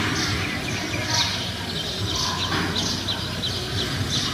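Small birds chirping: short, high, falling notes repeated several times a second over a steady low rumble of outdoor noise.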